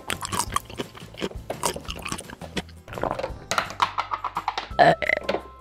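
Rapid, exaggerated chewing and munching noises, made for a toy puppy gobbling its food, over light background music.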